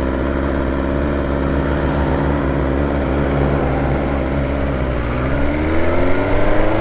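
Motorcycle engine running at steady revs while riding, then from about five seconds in the revs climb smoothly as it accelerates.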